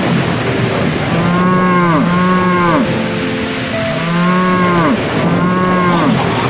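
Cattle mooing: four drawn-out moos, each rising and falling in pitch, in two back-to-back pairs, over a steady rushing noise.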